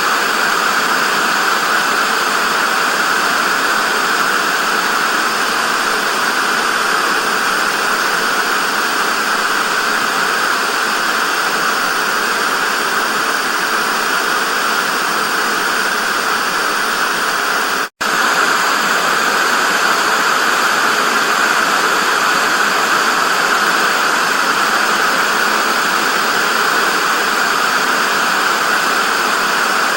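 Television static: a steady, even hiss, cutting out for an instant a little past halfway through before resuming unchanged.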